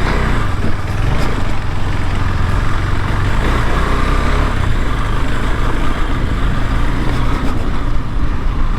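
KTM 390 Adventure's single-cylinder engine running steadily as the motorcycle is ridden along a muddy trail, heard from the rider's helmet microphone.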